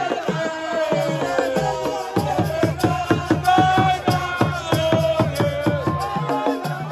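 Senegalese assiko music: a singing voice holding long, bending notes over steady hand drumming and shaken rattles.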